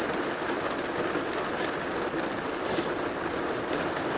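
Steady rain on a motorhome's roof, heard from inside the cabin as an even hiss with a few faint single taps.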